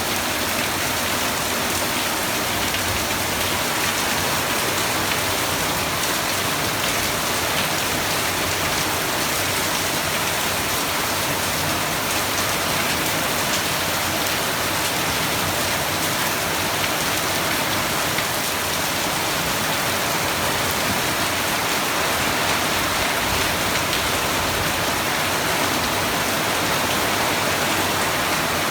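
Steady, heavy rain falling and pattering on surfaces, a dense even hiss with fine scattered drop ticks.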